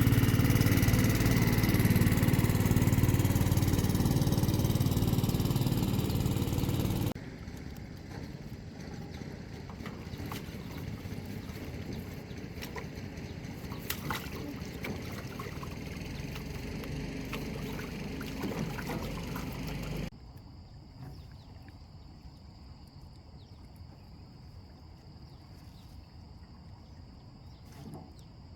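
A small boat's engine running loud and steady, cut off abruptly about seven seconds in. A quieter stretch follows with scattered clicks and knocks, and near the end only a faint background with a steady high tone.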